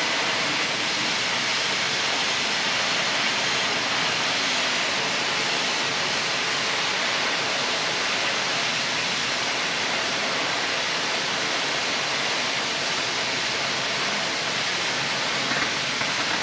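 Oxy-fuel cutting torch jet hissing steadily as it cuts through thick steel plate.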